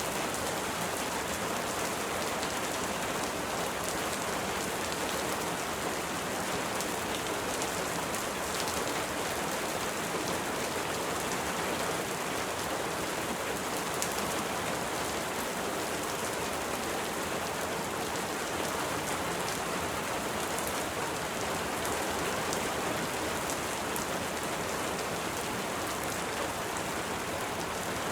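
Steady rain falling: an even, unbroken hiss with faint ticks of single drops.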